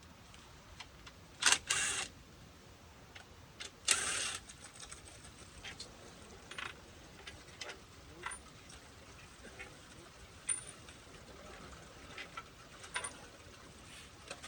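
Metal hand tools clinking and clanking against a pool pump's motor housing and bolts as the motor is unbolted: two sharp clanks about one and a half to two seconds in, a short clatter about four seconds in, and light scattered ticks.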